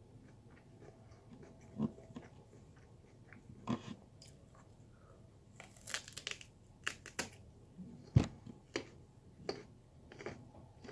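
A person chewing raw sweet potato with crunches at irregular intervals. The crunches come thicker in the second half, and one sharp crunch about eight seconds in is the loudest.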